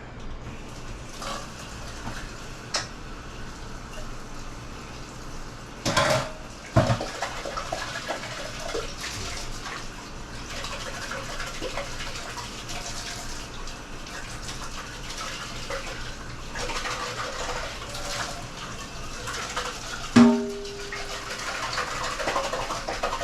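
Kitchen racket: dishes and glassware knocking and clattering as things are moved about and set down. There are two loud knocks about six seconds in and a sharp clink with a short ring near the end.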